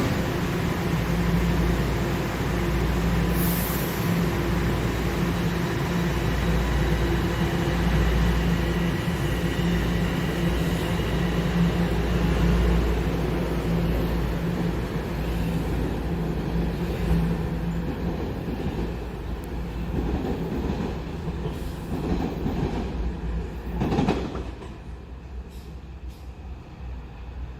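Toronto subway train running past with a steady motor hum and rail noise, fading away over the second half, with a sharp clunk near the end.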